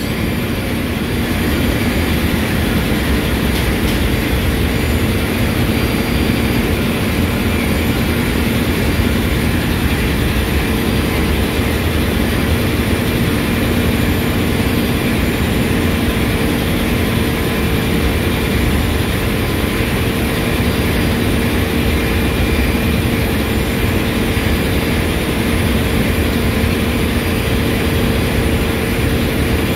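Steady machinery drone of a ship's engine room, with the freshly overhauled lube oil purifier (a centrifugal separator) running. The hum holds a constant pitch over a dense low rumble, with no change in speed.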